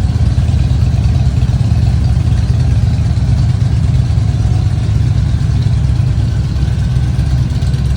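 Motorcycle engine running steadily through its exhaust, a loud, even, deep rumble with no revving.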